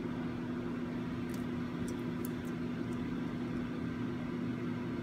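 Steady machine hum with a constant low tone, and a few faint light ticks between one and two and a half seconds in.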